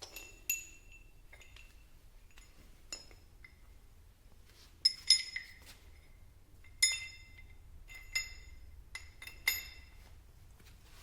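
Metal parts and tools clinking together: about ten sharp, irregular clinks, each ringing briefly, the loudest pair about five seconds in.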